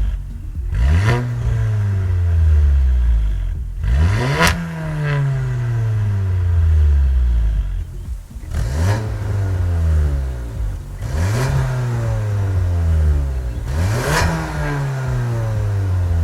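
Skoda Octavia RS engine through an XForce VAREX valved cat-back exhaust, revving repeatedly: about five times the note climbs quickly and then falls away slowly.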